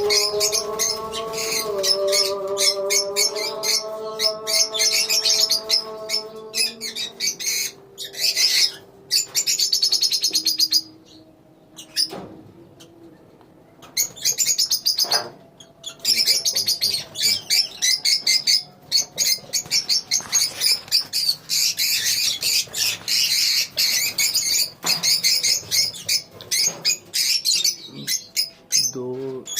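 A colony of lovebirds chattering with dense, rapid, high-pitched chirps, with a brief lull about eleven seconds in. Through the first ten seconds a long held tone that glides slowly in pitch sounds underneath, like a distant voice.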